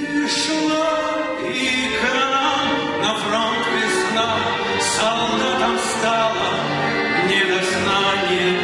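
A song performed live by a male voice with a chamber orchestra, played full and steady, with a bright high accent recurring about once a second.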